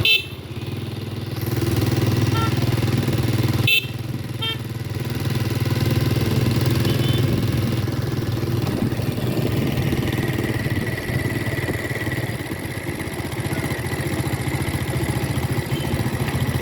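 Three-wheeled motorcycle's small engine running steadily on the move, with two brief dips in its sound, at the very start and about four seconds in.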